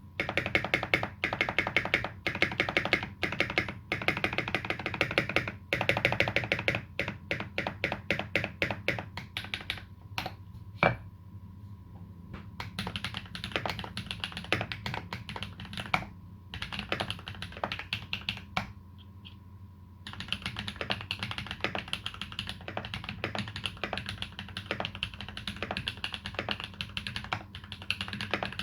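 Typing on a TX EO87 tenkeyless custom mechanical keyboard with lubed Holy Panda tactile switches and GMK Dolch keycaps. Fast runs of keystrokes give way about halfway through to a slower patch of scattered single presses, and steady typing picks up again about twenty seconds in.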